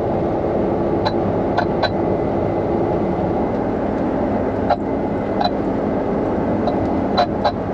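Steady drone of a combine harvester running while harvesting, heard from inside the cab, with a few short clicks scattered through.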